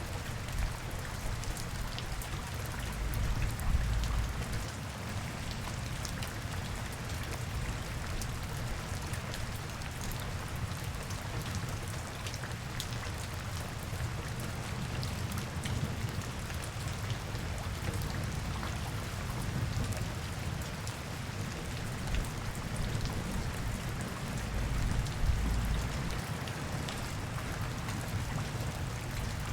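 Steady rain falling and spattering on surfaces, many small drop ticks in an even hiss. A low rumble runs underneath and swells twice, a few seconds in and again near the end.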